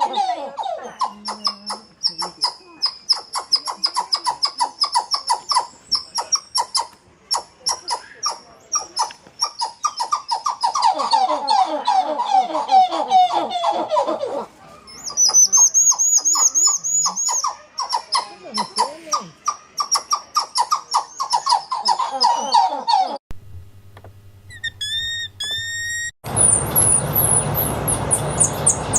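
Primate calling: long rapid series of short, sweeping, chattering calls. About 23 seconds in, it gives way to a different recording of repeated short chirps over hiss.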